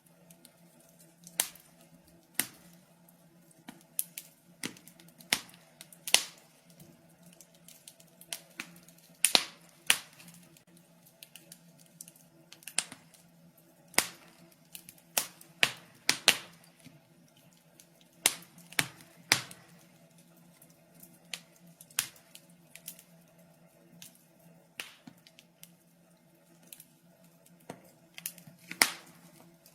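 Wood fire in a fireplace crackling: irregular sharp pops and snaps at a rate of a few every couple of seconds, over a faint steady hum.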